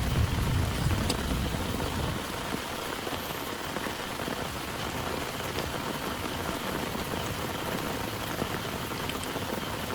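Heavy rain pouring steadily. A low rumble of thunder dies away about two seconds in.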